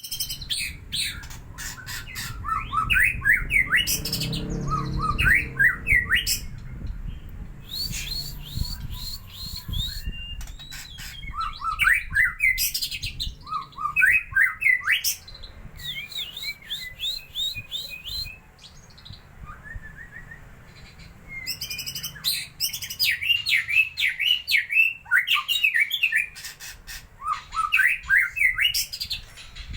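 White-rumped shama singing in fast bursts of sweeping whistled notes mixed with sharp clicks, phrase after phrase with short pauses between them. It is a lure song of the kind played to a caged shama to provoke it into singing.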